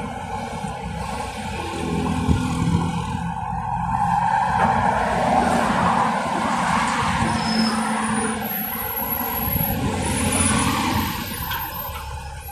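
Electric bus in motion: a steady rush of road and tyre noise that grows louder about two seconds in and eases near the end, with brief high whining tones.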